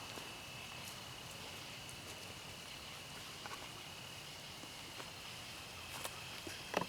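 Insects trilling steadily on one high pitch in outdoor ambience, with a few faint ticks and a sharper click near the end.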